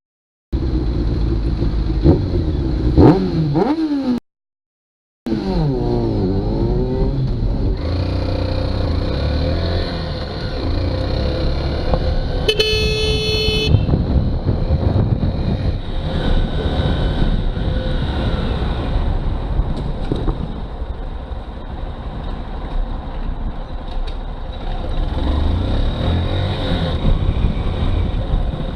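Motorcycle engine revving up and down while riding through city traffic, then running steadily under traffic noise. Around the middle a vehicle horn sounds once for about a second. The sound cuts to silence twice in the first few seconds.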